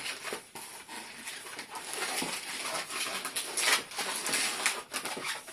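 Latex 260 modelling balloon squeaking and rubbing as it is twisted by hand into pinch twists.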